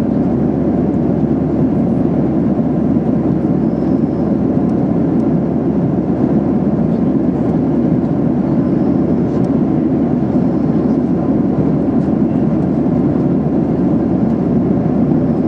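Steady cabin noise inside a Boeing 737-800 in flight: the even drone of its engines and the airflow over the fuselage, heavy in the low and middle range.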